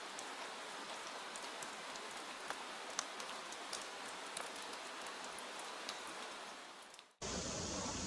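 Soft rain sound effect: a steady patter with scattered sharp drops. It fades out about seven seconds in and cuts to a different steady hiss.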